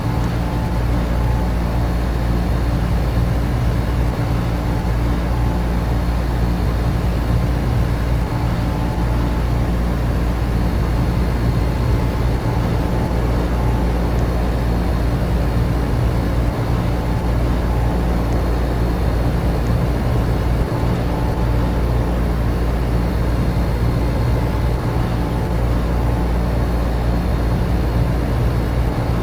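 Air conditioner and electric fans running steadily: a constant low hum with a few steady tones over an even rush of moving air.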